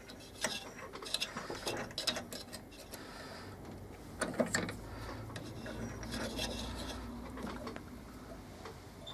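Irregular clicks, taps and rubbing of a tool and scrap wood pieces being handled, with a faint low hum in the middle stretch.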